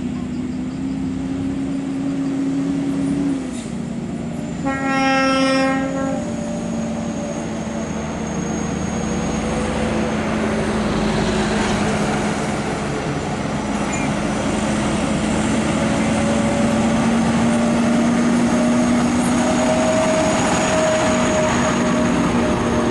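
Heavy truck engines running with a steady low drone, cut by a single horn blast of about a second and a half, about five seconds in. The drone and road noise grow slowly louder toward the end as a truck comes closer.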